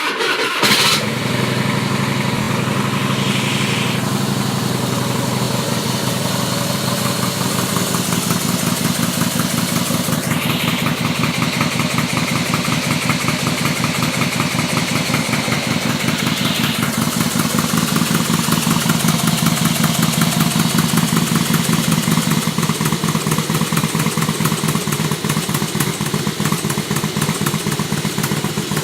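Harley-Davidson trike's V-twin engine starting, with a brief loud burst about a second in, then idling steadily with a rapid exhaust pulse.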